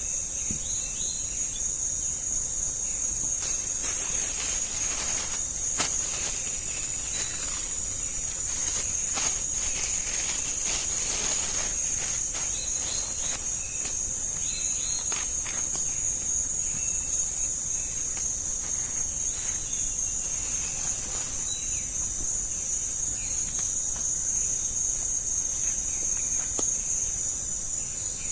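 Steady high-pitched chorus of rainforest insects at dusk, with some rustling and handling noises in the first half.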